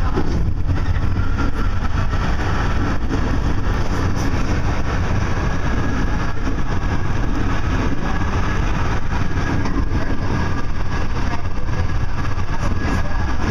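Steady low rumble of a Metra commuter train running along the track, heard from inside its leading cab car.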